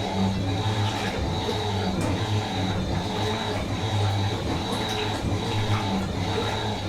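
Fisher & Paykel MW512 washing machine running, with a low motor hum that swells and eases every second or so and a steady high whine over it.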